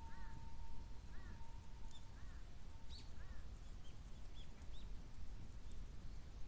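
A bird calling in short, arched, repeated calls about once a second that stop a little after three seconds in, over a steady low rumble with a few faint high ticks.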